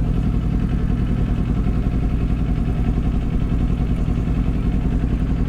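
Kawasaki Z400 parallel-twin motorcycle engine running steadily at low revs, with no rise or fall in pitch.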